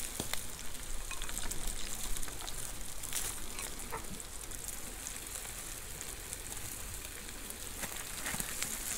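Scallops sizzling in melted butter in their own shells over an open fire, a steady frying hiss with a few light clicks.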